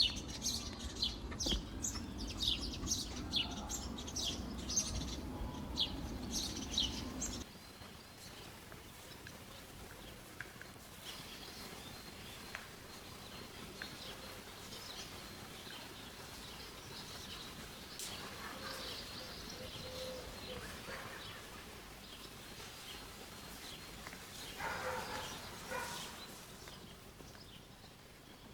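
Birds chirping in quick repeated calls over a low rumble, cutting off abruptly about seven seconds in. Quieter outdoor background follows, with scattered faint chirps and a short louder patch of calls near the end.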